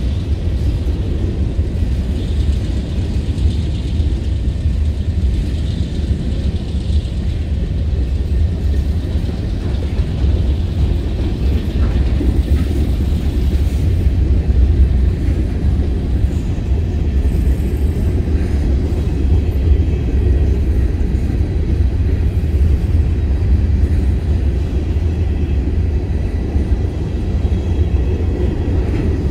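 Covered hopper cars of a CSX grain train rolling past close by: a steady, loud low rumble of steel wheels on the rails.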